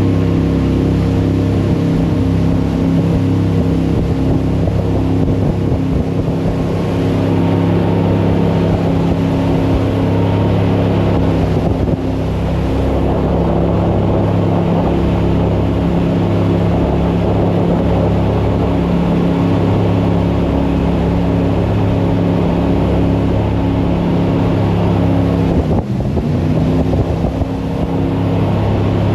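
Jet boat engine running steadily at speed, with water and air noise. Near the end the engine note dips and then climbs back as the throttle changes.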